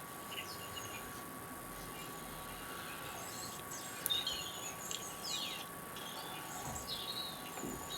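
Birds chirping in short, scattered calls over a faint steady hiss, with a thin steady whine throughout.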